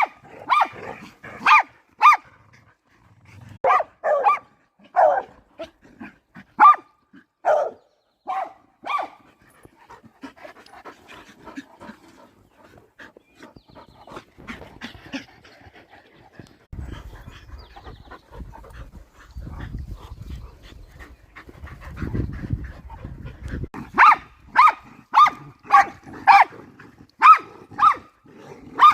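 Dogs barking: short single barks spaced a second or so apart, then a stretch of low rumbling noise, then a faster run of barks, about two a second, near the end.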